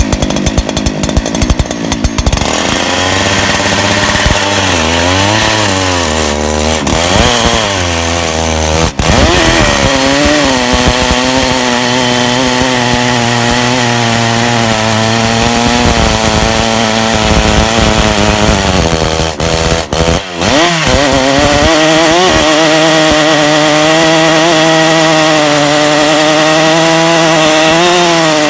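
Two-stroke chainsaw on a portable chainsaw mill, ripping a log lengthwise with a chain filed for cutting along the grain. It idles with a pulsing beat for the first two seconds, revs up with its pitch wavering, then runs steady under load, dipping briefly about twenty seconds in before picking up again.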